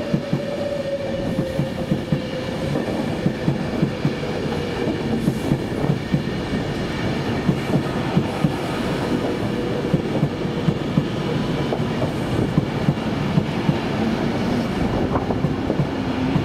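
A train running on the rails, its wheels clicking quickly and unevenly over rail joints above a steady rumble, with a faint whine that falls slowly in pitch during the first few seconds.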